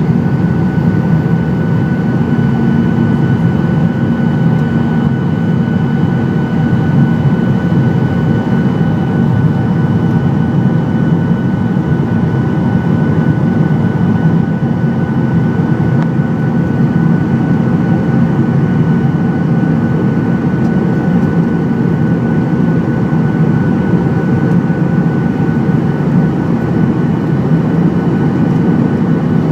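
Airplane in flight heard from inside the cabin: a steady drone of engines and airflow with a constant whine above it, unchanging throughout.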